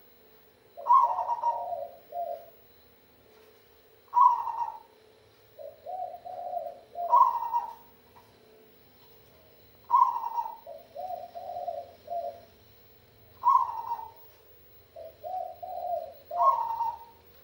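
Zebra dove (perkutut) cooing: a loud, clear note repeated about every three seconds, alternating with quick runs of four or five lower coos.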